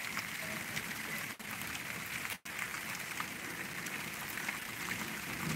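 Steady rain falling in a storm, an even hiss with scattered drop ticks. The sound cuts out very briefly twice, about one and a half and two and a half seconds in.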